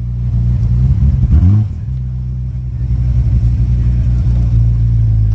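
A car engine idling steadily, with one short rev blip about a second and a half in.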